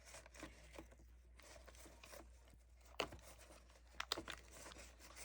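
Faint handling of small cured resin castings and silicone molds on a table: a sharp click about three seconds in and a few light taps about a second later, with quiet rustling between.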